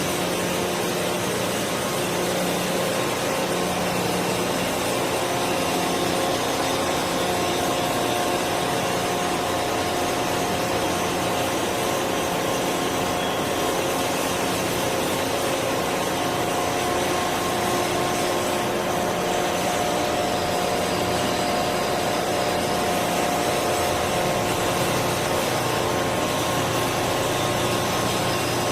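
Steady, unbroken hiss of metalworking on plant equipment, with a low machine hum running under it throughout.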